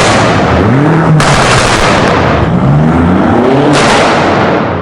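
BMW M5's 4.4-litre twin-turbo V8 through a straight-through DunnFab cat-back exhaust, pulling hard under acceleration. The engine note rises in pitch in two or three sweeps over a loud rush of exhaust and road noise, which eases off near the end.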